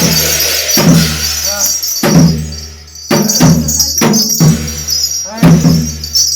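Korean shamanic ritual (gut) percussion: drum strikes landing every half second to a second, over steady jingling, ringing metal percussion. The playing eases briefly near the third second and then picks up again.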